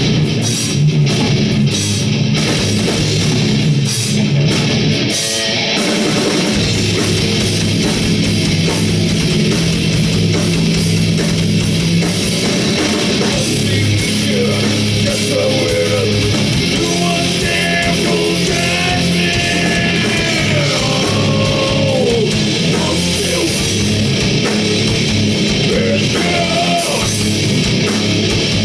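Heavy metal band playing live: distorted electric guitars, bass and drums, loud and dense throughout, with gliding pitched lines above the low notes.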